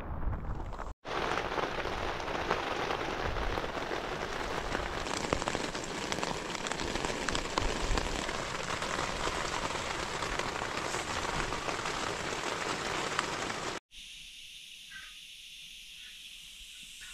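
Steady heavy rain falling on a camping tent and the wet grass beside it, an even dense hiss after a brief rumble of wind on the microphone at the start. Near the end the rain cuts off, leaving a much quieter open-air background.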